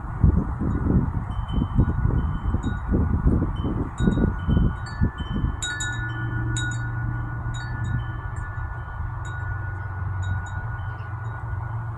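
Wind chime ringing in a breeze, its several held tones struck again and again at irregular moments, with one sharper strike about halfway. Wind buffets the microphone for the first half, and a low steady hum sits under the chimes after that.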